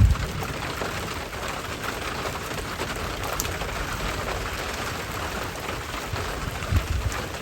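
Steady rain falling, a continuous even hiss, with brief low rumbles right at the start and again near the end.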